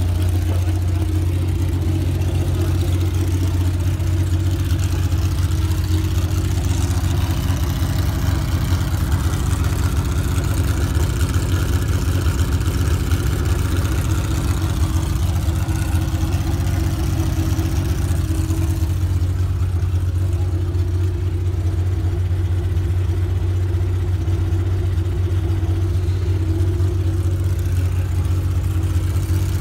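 Porsche 911 race car's flat-six engine idling steadily at an even pitch.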